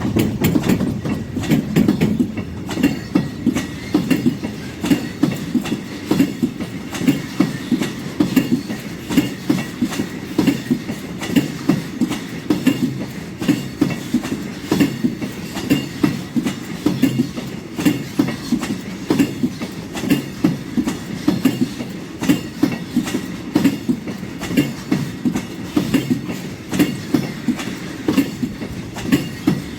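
Freight train wagons rolling past, their wheels clattering over rail joints in a steady, repeating clickety-clack.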